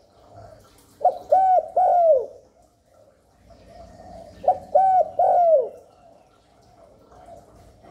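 Spotted dove giving its 'gáy gù' courtship coo: two three-note phrases about three and a half seconds apart, each note a short rise then a falling glide.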